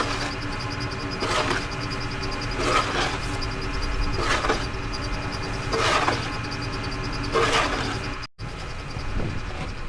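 Snow shovel scraping and scooping in regular strokes about every second and a half, over the steady hum of an idling truck engine.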